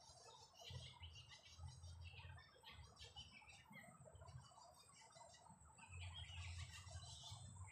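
Faint chorus of many birds chirping and twittering, over the soft patter of light rain, with a low rumble that comes and goes.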